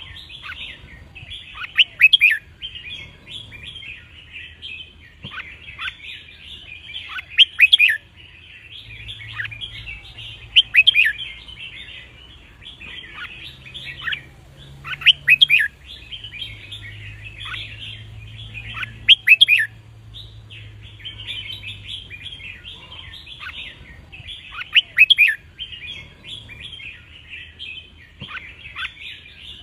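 Red-whiskered bulbul song: loud short whistled phrases repeated about every four to six seconds over continuous twittering and chattering of birds.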